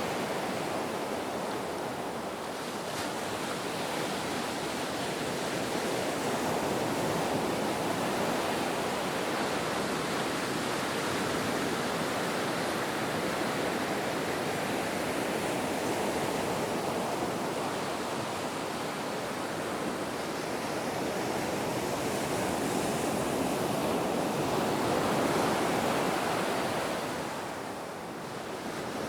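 Ocean waves breaking and washing ashore in a steady rush of surf, swelling and easing slowly, with one larger wave building near the end and falling away just before it closes.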